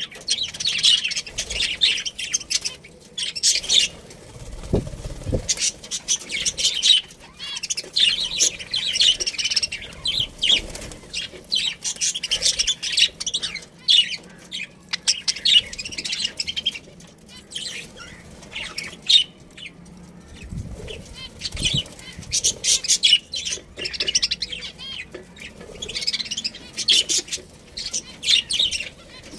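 Pet budgerigars chirping in quick, busy bursts with short pauses, with occasional wing flapping.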